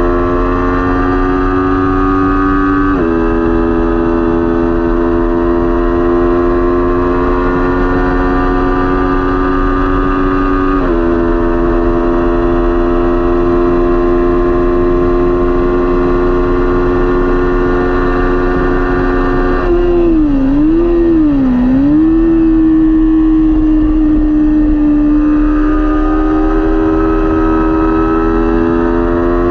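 Kawasaki Ninja 400 parallel-twin engine running hard at racing revs. Its pitch climbs and drops sharply twice in the first half as it shifts up, then pulls long. About two-thirds through it dips and wavers as it shifts down, before climbing again near the end. A steady rush of wind noise runs underneath.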